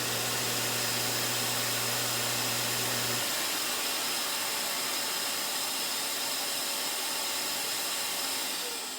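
A belt grinder and a vacuum cleaner run together on one switch, the vacuum's steady rushing over the grinder motor's low hum. About three seconds in the grinder's hum stops as the switch goes off, while the vacuum keeps running on its five-second delay and then spins down with a falling pitch near the end.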